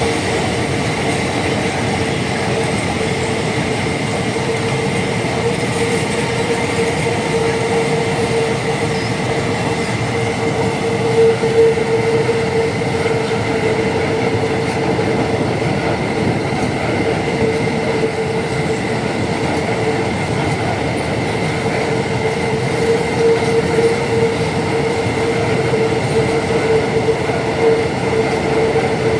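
Empty iron-ore train's wagons rolling past with a steady heavy rumble and a continuous ringing tone from the wheels on the rails, with a few brief louder knocks.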